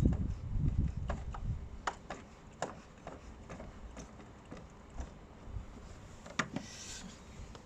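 Wind buffeting the microphone for the first second or so, then scattered light clicks and knocks of hand tools on metal as bolts on a power steering pump are worked loose, with a sharper knock near the end.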